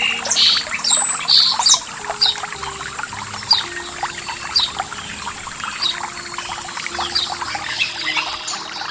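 Running water trickling and splashing, with birds giving short chirps about once a second, several of them close together in the first two seconds.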